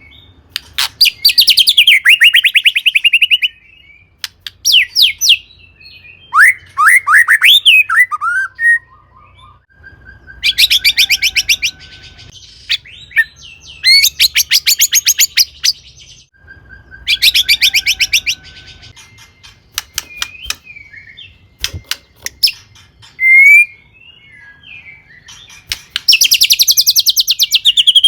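White-rumped shama singing a loud, varied song: bursts of fast rattling trills, each lasting one to three seconds, alternating with clear whistled phrases that glide up and down.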